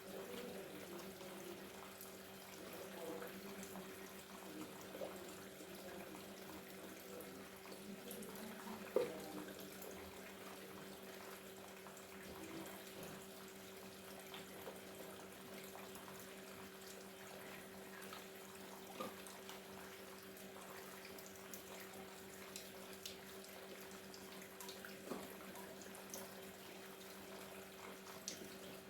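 Faint, steady trickle of water from a small paludarium waterfall, with occasional small drips and a steady low hum underneath.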